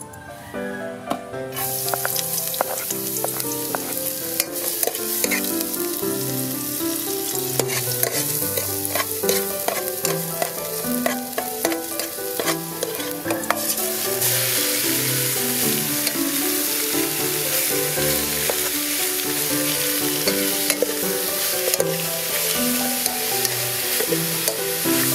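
Oil sizzling in an aluminium pot as chopped garlic fries, stirred with a metal ladle that clicks and scrapes against the pot. The sizzle grows louder about halfway through, with pieces of pig's leg frying in the pot by the end. Background music plays throughout.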